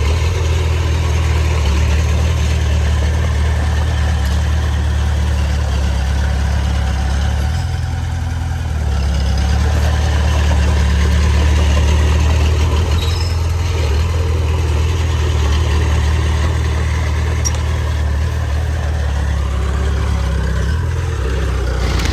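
Heavy diesel engine of earthmoving machinery running steadily with a deep drone, easing off briefly about eight seconds in and then rising again.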